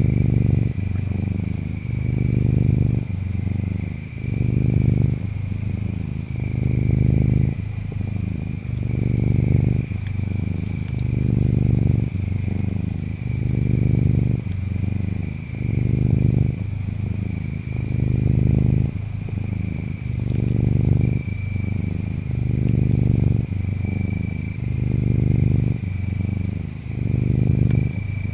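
Domestic cat purring close up, the low rumble swelling and easing with each breath about every two seconds. Behind it, insects chirp steadily, with a thin continuous trill and short high chirps every second or two.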